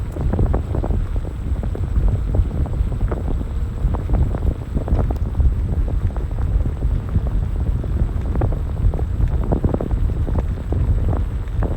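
Wind buffeting the microphone: a loud, constant low rumble with irregular gusts.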